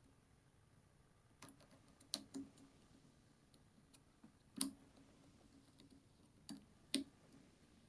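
A few sharp, irregular clicks and taps, about six in all, with the loudest about halfway through and shortly before the end, against near silence.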